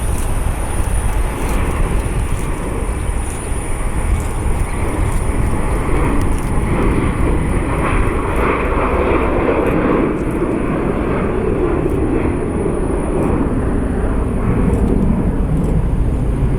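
Jet airliner engines running steadily through a departure, a loud noisy rumble that swells about halfway through and eases off toward the end.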